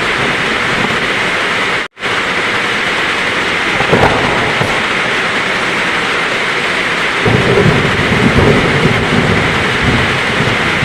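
Heavy rain falling steadily, with a low rumble of thunder rolling in about seven seconds in. The sound cuts out for an instant near two seconds in.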